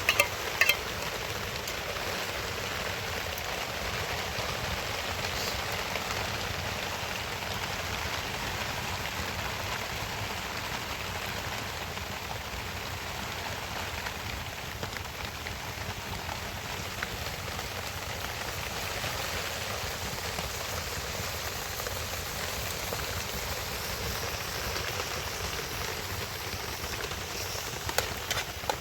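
Steady heavy rain falling and pattering on surfaces, with a few sharp knocks just after the start and again near the end.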